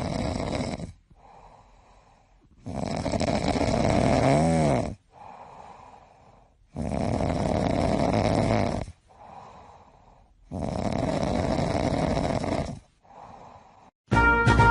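An animal snoring: four long, loud snores about every four seconds, each followed by a softer breath.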